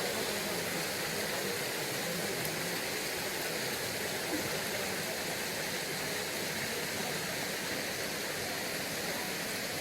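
Mountain stream water rushing steadily over rocks: a constant, even wash of noise.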